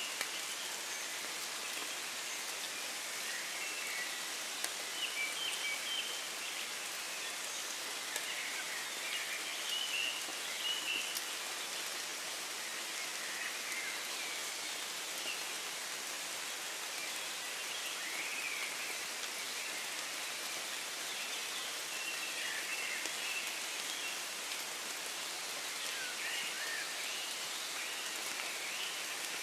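Steady rain falling in woodland, pattering on leaves and ground, with birds of the dawn chorus chirping on and off in short calls.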